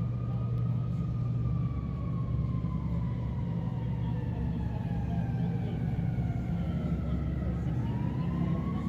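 An emergency vehicle's siren wailing, its pitch falling slowly over several seconds and rising again near the end, over a steady low rumble.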